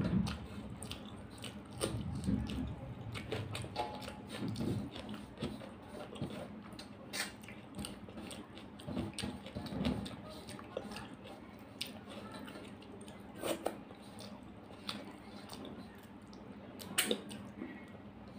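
Close-up eating sounds: chewing and wet mouth noises as a mouthful of rice and chicken curry is eaten by hand, with fingers scraping up rice and clicking on a brass plate. Irregular small clicks and smacks come every fraction of a second, a few sharper ones standing out.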